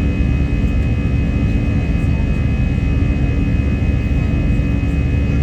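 Jet airliner's engines running at steady power during a takeoff climb: a loud, even low rumble with a steady higher whine over it.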